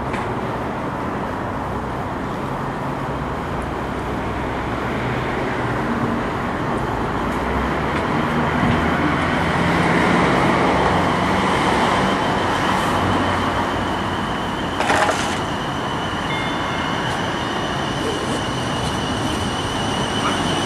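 A train running past on the line, with a steady rumble that swells and then eases. A steady high whine sets in about twelve seconds in, and there is one short sharp knock about three seconds later.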